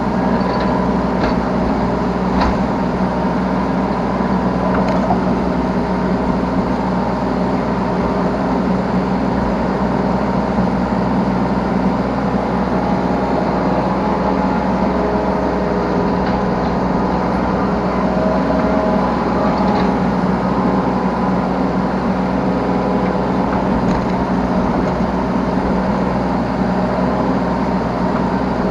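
Yanmar B3 Sigma 3-ton mini excavator's diesel engine running steadily under working load, heard from the operator's seat, with a few light clicks in the first few seconds.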